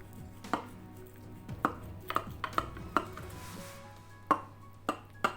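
A knife cutting through a baked lasagna in its baking dish, the blade knocking and clicking against the dish in a series of irregular sharp taps, with a brief scrape about halfway through.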